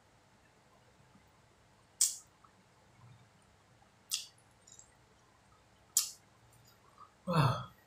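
Wet mouth clicks and smacks of someone chewing soft martabak manis close to the microphone, one about every two seconds. Near the end there is a short hum that falls in pitch.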